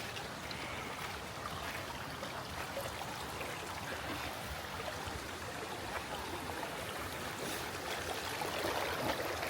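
Creek water running steadily, a continuous rushing hiss.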